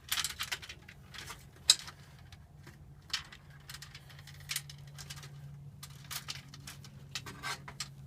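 Light clicks, taps and rustles of hands handling electrical wires and wire connectors, with a steady low hum coming in about three seconds in.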